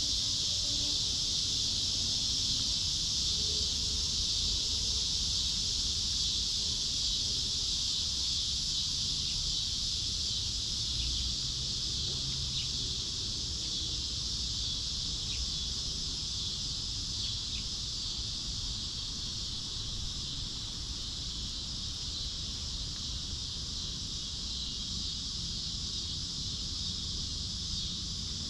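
Steady high-pitched insect chorus shrilling without a break, with a low rumble underneath.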